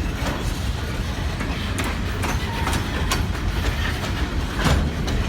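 Freight cars of a Kiamichi Railroad train rolling past, a steady low rumble of wheels on rail with irregular sharp clicks from the wheels over the track joints.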